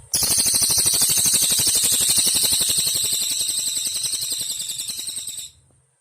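Cililin insect calling: one loud, high, rapidly pulsing buzz trill that starts abruptly, lasts about five seconds, weakens slightly toward the end and then cuts off.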